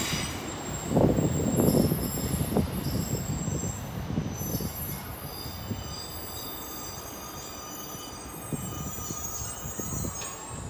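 Class 153 diesel railcar pulling away and receding. Its low rumble is loudest about a second in and then fades, while a thin, high-pitched wheel squeal carries on throughout.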